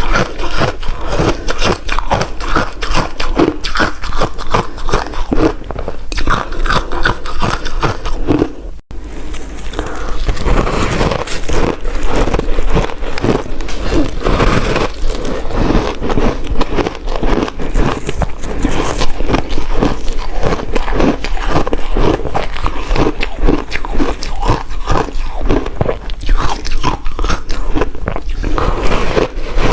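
Ice being bitten and chewed close to the microphone: a dense run of loud, sharp crunches, several a second, with a momentary break about nine seconds in.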